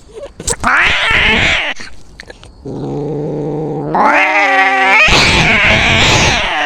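Cats fighting: a hiss near the start, then a low, drawn-out yowl that climbs steeply in pitch into a loud caterwaul, ending in a harsh, hissing screech.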